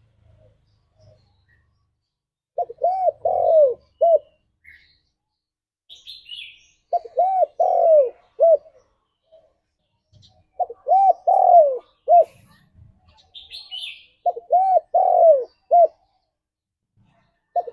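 Spotted dove cooing: four phrases of several arching coo notes, about one every four seconds, with short silences between. A few faint, high chirps from another small bird fall between the phrases.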